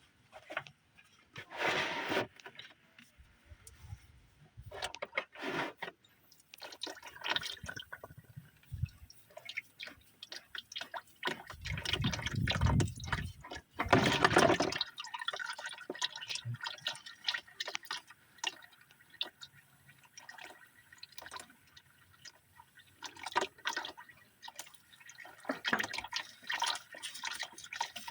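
Hydraulic oil running and dripping out of the tractor's hydraulic filter housing into a drain pan, with scattered knocks and clinks of handling. A heavier, louder run of liquid comes about halfway through.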